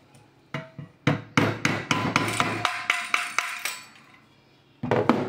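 Rapid hammer blows, about four or five a second, knocking on a Kärcher WD 3 vacuum cleaner's motor assembly to drive a part loose and take it apart. A couple of knocks come about half a second in, a quick run of blows lasts a few seconds, and another short burst comes near the end.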